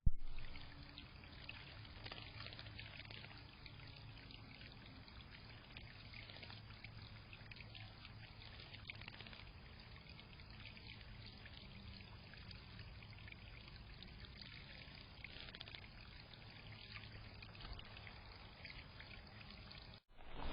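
Water trickling steadily into a birdbath, a continuous fine splashing patter.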